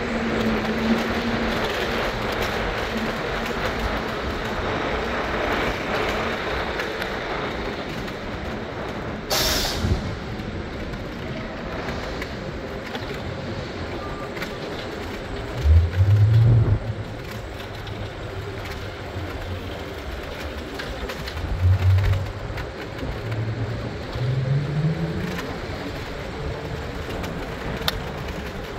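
PATH rapid-transit train running, a steady rumble and rattle of the rail car. There is a short burst of air hiss about nine seconds in, and several short low hums later, the last one rising in pitch.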